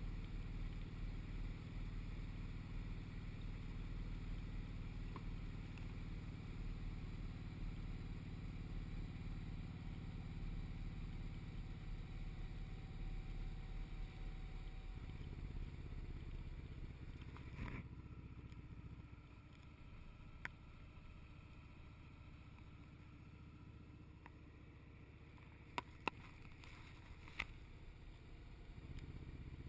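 Motorcycle engine running at a steady cruise with a low drone, easing off to a quieter, lower note about halfway through, with a few sharp clicks, then picking up again near the end.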